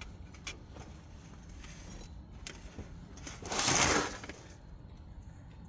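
A few faint clicks of parts being handled, then a man's heavy exhale of about a second, a little past the middle.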